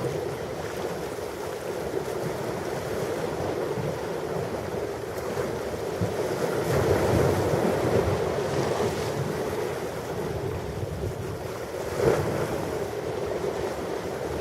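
Ocean waves washing onto a shore in a continuous rush, swelling louder past the middle, with a sharper surge of breaking surf near the end.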